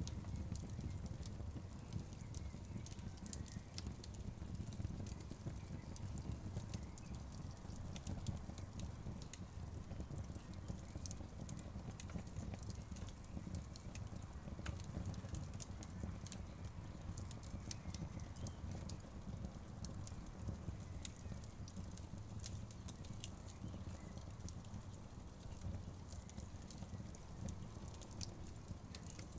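Wood fire in an outdoor fireplace crackling, with many small, sharp pops scattered irregularly over a steady low rumble.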